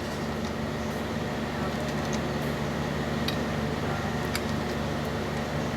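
Steady mechanical hum of room machinery with a few light clicks from small parts being handled.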